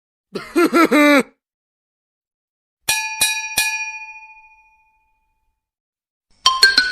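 Sound-effect clips: a short voice-like cartoon sound with a sliding pitch, then three quick bell-like dings, each ringing out clearly and fading over about a second.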